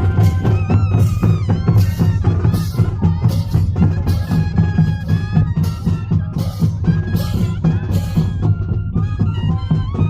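Moseñada troupe playing: the big Andean duct flutes carry a wavering melody over a dense low drone, with a steady drumbeat beneath.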